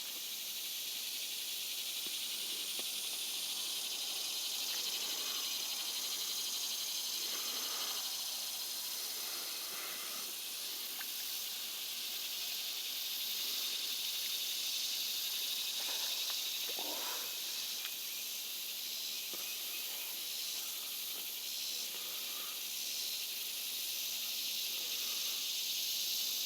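Steady high-pitched insect chorus droning without a break. A few faint short sounds rise over it around 8 and 17 seconds in.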